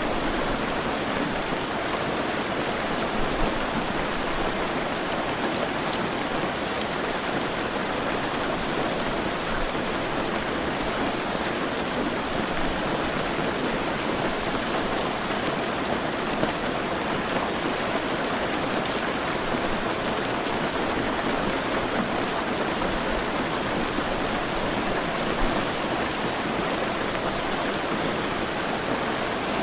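Heavy rain falling steadily, a dense even hiss of drops with no distinct splashes or thunder.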